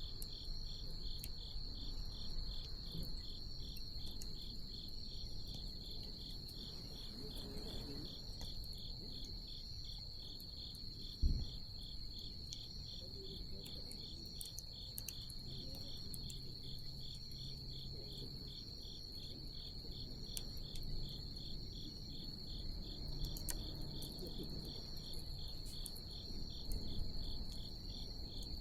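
Crickets chirping steadily in an even, fast pulsing rhythm, with faint crackles from a wood bonfire and one short low thump about eleven seconds in.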